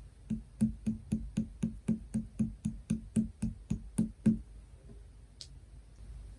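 Slime being pressed by hand in a steady rhythm, making about sixteen clicking pops at roughly four a second that stop a little past four seconds in.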